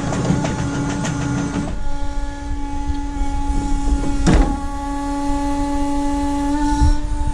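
Wacker Neuson EZ17e all-electric mini excavator's electric drive running: rattling and clicking for the first two seconds, then a steady whine. A sharp click comes about four seconds in and a low thump near the end.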